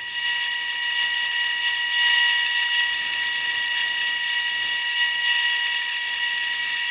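Motor-driven sanding wheel running steadily against a machined metal part, taking the edge off its inside: a constant high whine over a hiss of abrasion.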